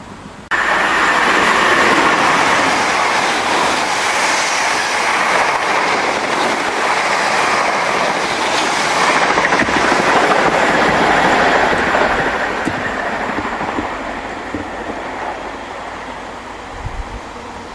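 Train passing: a loud, steady rush of wheels on rail that starts abruptly and dies away over the last few seconds.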